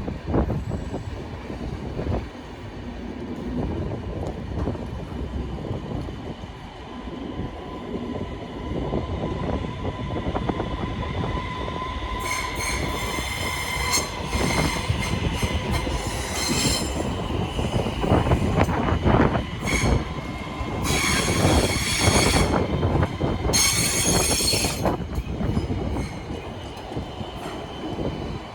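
Trains moving through a large station: a steady rumble of wheels on rails. In the second half, steel wheels squeal against the rails several times, each squeal high-pitched and lasting a second or two.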